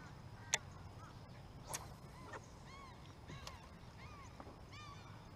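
A bird calling repeatedly in short arched notes, rising and falling, about two a second, starting about two seconds in. A couple of sharp clicks come before the calls start.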